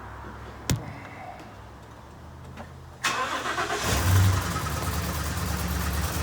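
A sharp click, then the Ford 6.2 L V8 is cranked about three seconds in, catches about a second later and keeps running. The engine is misfiring from a broken exhaust valve spring on cylinder 4.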